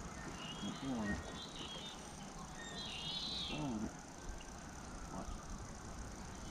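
A songbird singing short warbled phrases, three of them in the first few seconds, over a quiet outdoor background.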